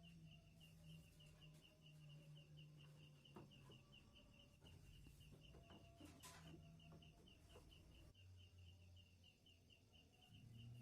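Near silence: faint background with a steady run of high chirps, about five a second, over a low hum, and a few faint clicks.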